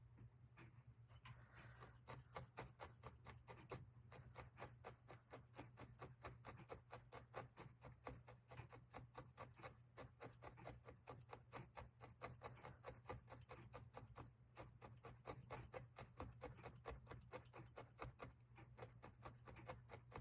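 Felting needle stabbing repeatedly through wool roving into a foam block: faint, quick, even strokes at about four or five a second, starting about a second and a half in.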